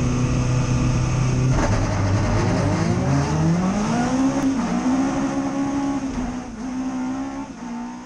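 Vauxhall 2.5 XE four-cylinder twin-cam rallycross engine heard from inside the car. It holds steady revs, then about one and a half seconds in the revs climb. There is a brief dip about four and a half seconds in, then it runs steadily higher, with a couple of short dips before fading out near the end.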